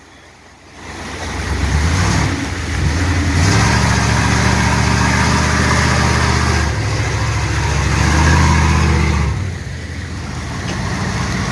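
Ford Raptor pickup's engine revving under load as it works through a dirt obstacle; the revs rise about a second in, step up and down several times, and ease off near the end.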